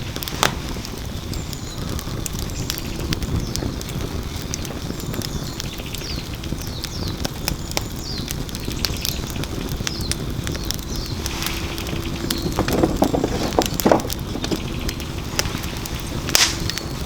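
Wood fire burning in a fire pit: a steady low rumble of flame with scattered crackles and pops. About two-thirds of the way through comes a cluster of knocks as split firewood is stacked onto the fire.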